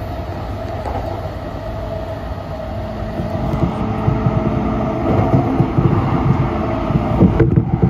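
Electric commuter train running, heard from inside the carriage with a second train alongside: a steady rumble of wheels on rail with a faint hum, growing louder and heavier over the last few seconds.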